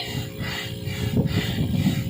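ARB electric air compressor running with a steady hum and rough low rumble while inflating an inflatable kayak, alongside the regular strokes of a hand air pump, about two a second.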